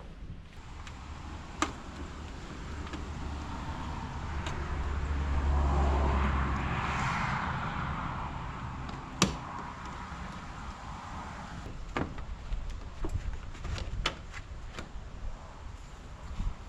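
Sharp plastic clicks of push-pin clips being pried out of the radiator cover with a plastic pry tool, one loud click about nine seconds in and a run of them near the end. In the middle a vehicle passes, a low rumble and hiss that swells and fades.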